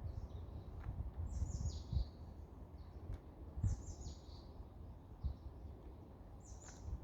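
Wild songbirds calling: short high phrases that slide down in pitch, three main ones a couple of seconds apart with a few fainter notes between, over a steady low rumble with occasional low bumps.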